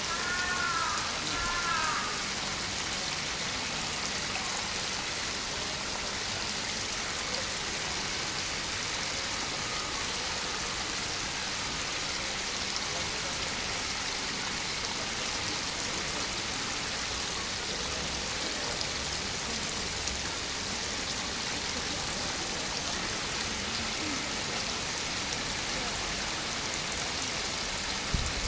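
Spring water flowing and splashing steadily, an even rush with no break.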